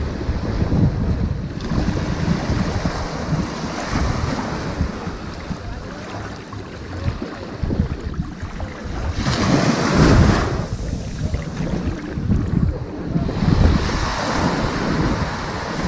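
Ocean waves washing onto a sand beach in a continuous rushing wash, with one louder wave breaking and running up about two-thirds of the way through.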